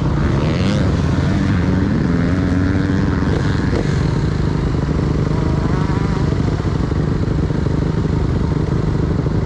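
Motocross dirt bike engines running, one climbing in pitch over the first few seconds as it accelerates, over a steady low engine drone.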